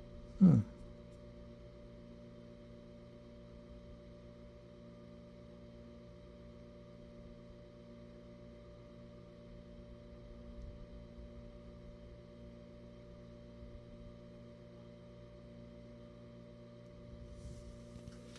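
Steady electrical hum made of several even, unchanging tones. About half a second in, a short, loud sound drops in pitch and is gone within a fraction of a second.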